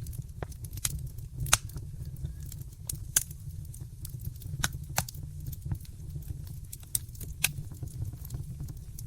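Wood fire crackling in a fireplace: irregular sharp snaps and pops, a few louder ones, over a steady low rumble of the burning fire.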